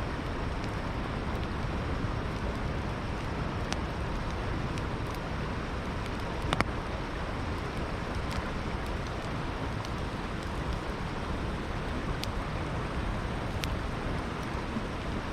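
Campfire crackling with a few scattered sharp pops, one louder about six and a half seconds in, over the steady rush of flowing river water.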